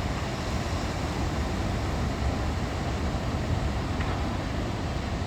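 Sea wind and waves: a steady, even rush with a heavy, flickering low rumble.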